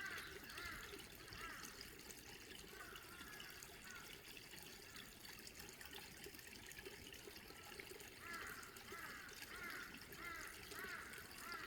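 Small stream of water trickling and gurgling faintly, with a run of quick burbles near the start and again in the last few seconds.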